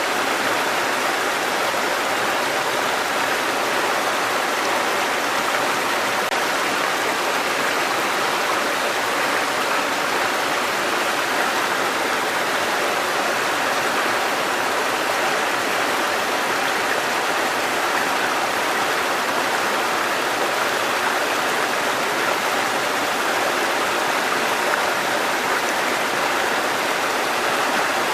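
Mountain stream water cascading over rocks, a steady, even rushing.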